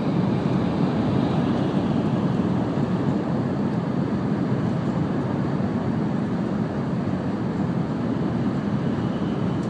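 Steady low rumble of an N700-series Shinkansen running through a tunnel, heard inside the passenger cabin.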